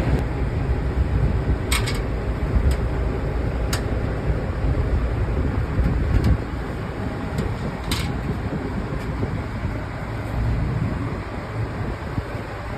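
Steady low rumble with a few sharp clicks, the loudest about a second and a half in and about eight seconds in.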